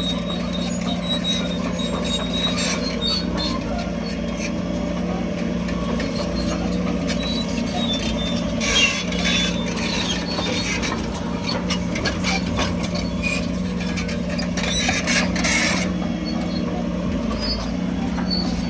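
Bulldozer diesel engine running steadily under load, with metallic squeaks and clatter from its steel crawler tracks, heaviest about halfway through and again later on.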